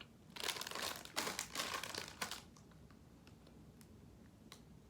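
Plastic snack packaging crinkling as it is handled, in a few bursts over the first two seconds or so, then quieter with a single small click near the end.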